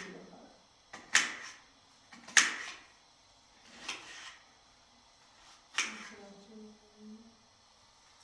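Four sharp knocks or clacks a second or more apart, each with a short ringing tail, the last followed by a brief voice.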